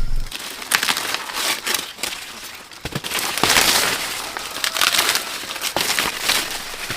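Dry corn leaves and husks rustling and crackling in irregular bursts, with a few sharp snaps, as ears of corn are handled and picked.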